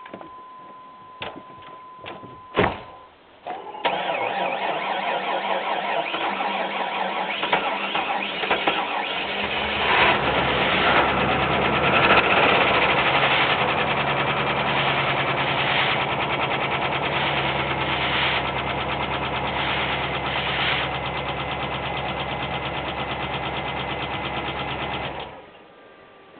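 The V8 of a 1997 GM 1500 4x4 pickup is cold-started at about -8 degrees after sitting unused, after a few clicks and a steady tone. It cranks and comes to life about four seconds in, settles into a steady idle, and is switched off near the end.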